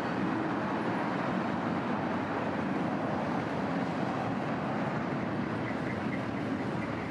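Freight train of boxcars rolling past, a steady rumble of wheels on rail.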